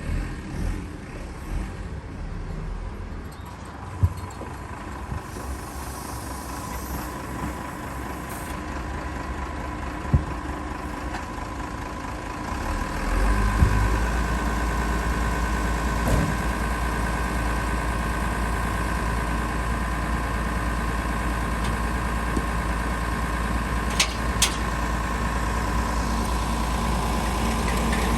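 A vehicle engine idling; about 13 seconds in it becomes louder and deeper, with a steady whine on top, and keeps running evenly. A few sharp clicks sound before it and two near the end.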